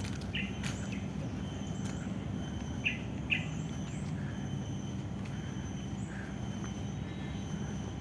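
Wild birds calling in short, scattered chirps and brief high whistles, over a steady thin high-pitched whine and a constant low rumble.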